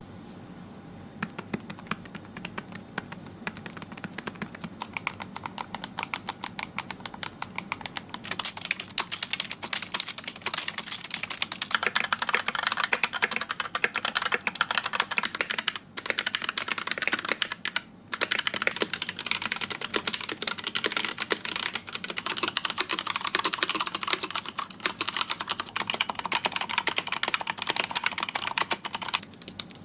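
Fast typing on a computer keyboard: a dense, continuous run of key clicks that grows busier partway through and stops briefly twice.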